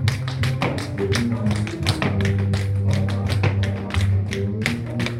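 Tap shoes striking the floor in quick, uneven runs of taps during a dance routine, over recorded music with a steady bass line.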